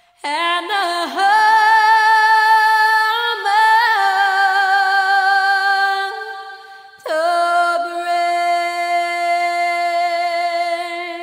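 A woman singing unaccompanied in long held notes with vibrato. A first sustained note steps up in pitch partway through; a second long note begins about seven seconds in and fades near the end.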